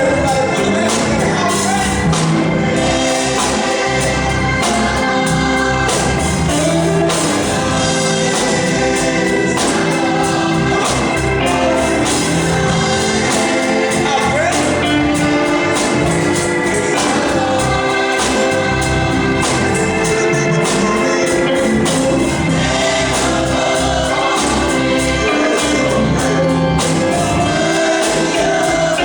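Gospel music: a choir singing over instrumental accompaniment with a steady drum beat.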